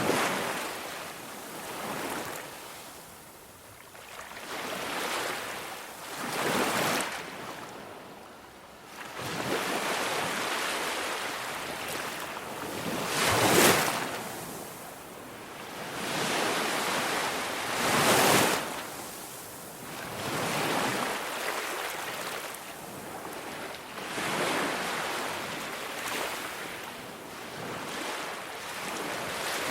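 Ocean surf: waves breaking and washing in, swelling and falling away every few seconds, the loudest surges at about the middle of the stretch.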